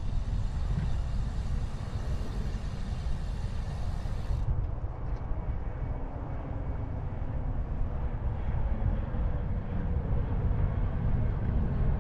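Steady low rumble of wind and ride noise on the microphone of a 360 camera carried on a moving bicycle.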